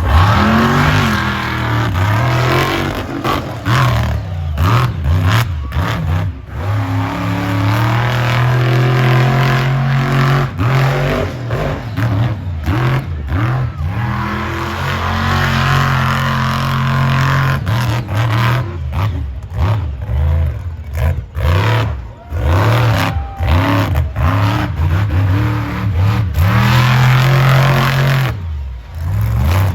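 Monster truck engine revving hard, its pitch climbing and falling again and again, with short sharp dips as the throttle is chopped.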